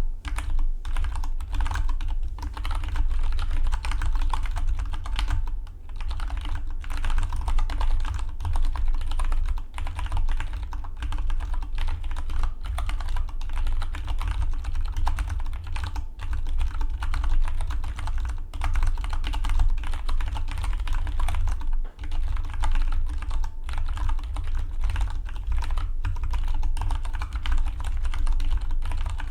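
Fast, continuous typing on a Dygma Defy split mechanical keyboard: a dense patter of key clicks, with brief pauses about six seconds in and again past the twenty-second mark.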